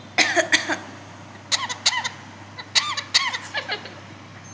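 Pet parrot giving short, sharp squawking calls in four quick clusters.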